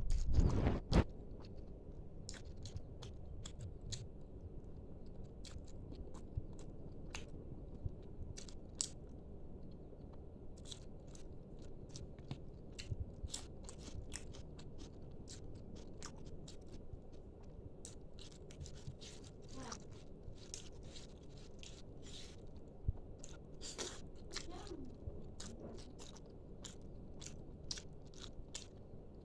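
A person chewing and biting fried food close to the microphone, with frequent small crunches and smacks, louder in the first second.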